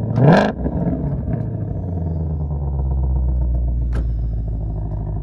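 2020 Shelby GT500's supercharged 5.2-litre V8 idling steadily with its exhaust in quiet mode, with one short rev just after the start.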